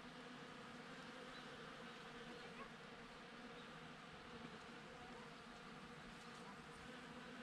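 Bees buzzing as they forage, a faint, steady hum.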